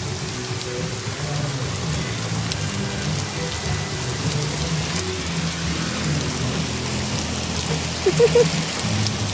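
Heavy rain pouring steadily and pattering on surfaces. A brief pitched sound stands out about eight seconds in.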